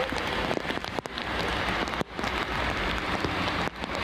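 Rain falling on standing floodwater: a steady hiss dotted with many small drop taps.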